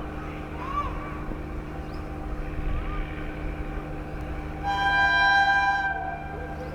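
Indian Railways locomotive horn sounding one long blast of about a second and a half near the end, over the steady low hum of the approaching express train.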